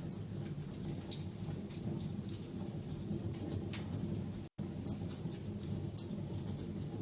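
Wood fire burning, a steady low rumble with irregular crackles and sharp pops. The sound cuts out completely for an instant about four and a half seconds in.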